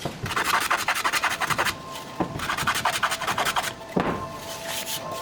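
Rapid rasping strokes on wood in two quick runs, with a single knock near the end. Faint music tones come in about two seconds in.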